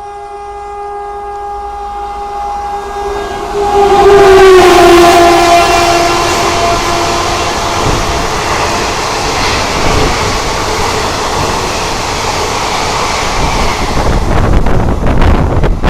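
A fast Indian Railways train passing close by, sounding a long held horn whose pitch drops as the locomotive goes past about four seconds in. The coaches then rush by with a steady rumble, and rhythmic wheel clicks over the rail joints grow louder near the end.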